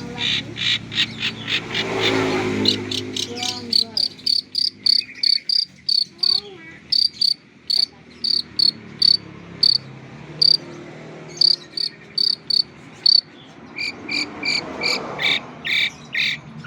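Long-tailed shrike singing a long series of short, sharp, high chips, about two to three a second, broken by brief pauses.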